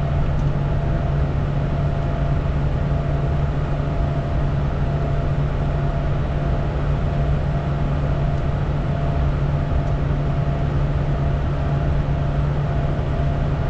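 Steady cockpit noise of a Bombardier Challenger 350 business jet in flight: rushing airflow over a constant low engine hum, unchanging throughout.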